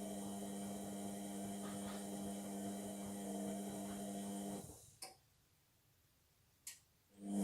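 Indesit washing machine motor humming steadily as the drum tumbles in the wash, then winding down about four and a half seconds in. There are two short clicks in the pause before the motor starts again near the end.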